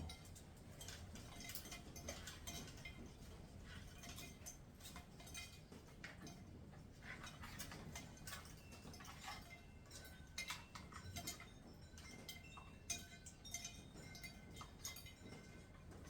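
Faint, irregular light clicks and clinks.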